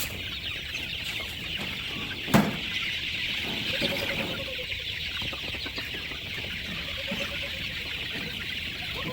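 Chickens clucking, with a few short calls, over a steady high-pitched hiss. A single sharp knock about two and a half seconds in is the loudest sound.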